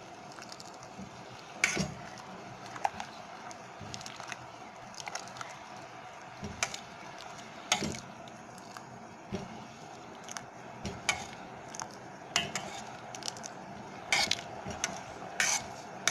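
A spoon stirring thickening lemon syrup in a saucepan, knocking and scraping against the pot at irregular moments over a steady low hiss.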